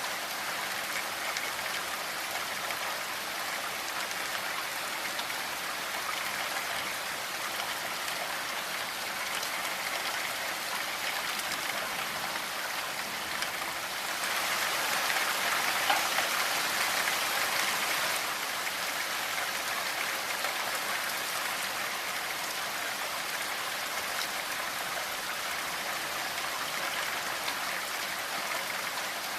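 Steady rainfall, an even hiss of many drops, swelling a little heavier for a few seconds about halfway through.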